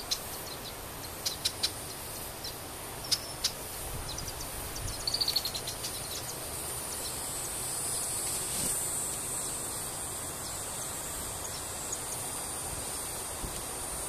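Red-winged blackbird chirps: a few short high single chirps, then a quick run of notes about five seconds in, over a steady high-pitched hiss.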